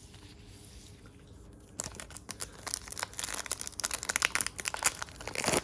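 Plastic trading-card pack wrappers being torn open and crinkled. A dense run of sharp crackling starts about two seconds in.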